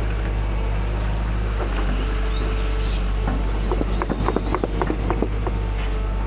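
Hydraulic excavator's diesel engine running steadily with a deep drone, with a quick run of about a dozen sharp knocks and clanks a little past the middle.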